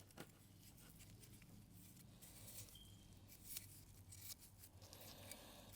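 Near silence: faint room tone with a few faint, scattered clicks and taps.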